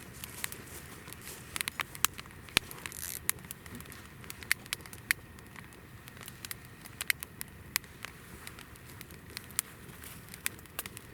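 Hinoki (Japanese cypress) firewood burning in a campfire: irregular sharp crackles and pops over a low steady rumble of flame, with a short hiss about three seconds in.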